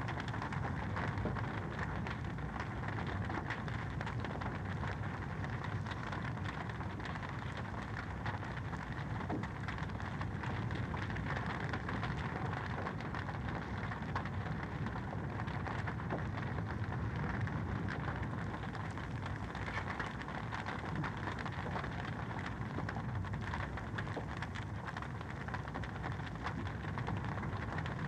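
Wood fire crackling steadily in a fireplace, a continuous hiss dotted with many small pops and snaps.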